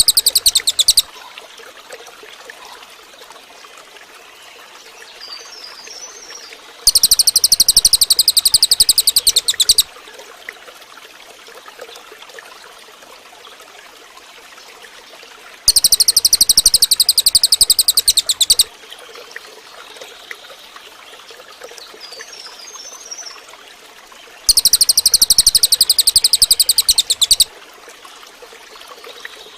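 Cililin bird singing a fast, high, rattling trill of about three seconds, repeated roughly every nine seconds, with a soft brief twitter between trills. Running water trickles steadily underneath.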